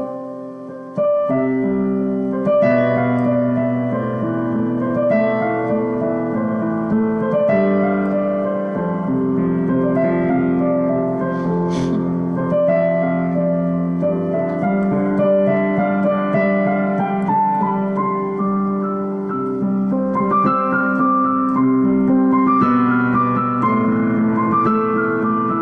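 Solo piano playing slow, held chords and gentle melodic lines as an instrumental passage without singing. It gets louder about a second in.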